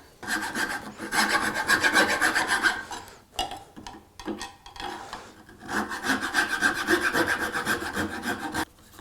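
A file or rasp worked back and forth on wood in two long runs of quick scraping strokes, with a few short strokes between them.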